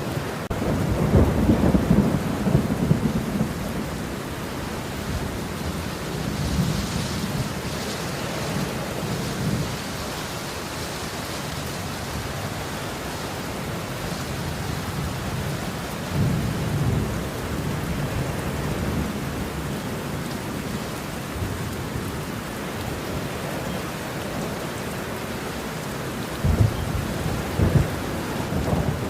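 Thunderstorm: steady rain falling throughout, with low thunder rumbling about four times, near the start, about a third of the way in, just past halfway, and near the end.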